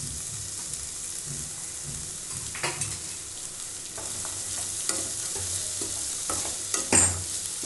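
Carrot and potato sticks sizzling as they fry in a kadai, with a spatula stirring and scraping through them in several strokes, the loudest near the end.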